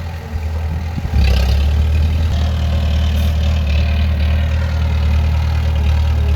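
Heavy diesel engine of a bulldozer running steadily. It is quieter for about the first second, then comes back louder with a brief surge and runs on evenly.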